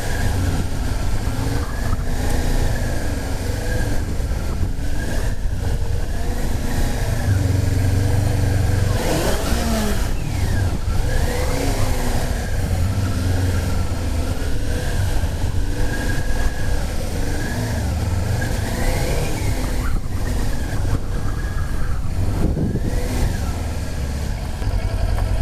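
Motorcycle engine running while being ridden, its revs rising and falling several times as it is shifted through the gears.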